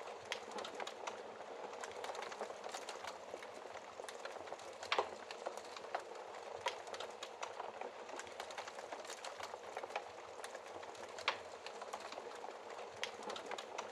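Wood fire burning in a fireplace: a steady hiss and rustle of flames with frequent irregular crackles and snaps, two sharper pops standing out about five seconds and eleven seconds in.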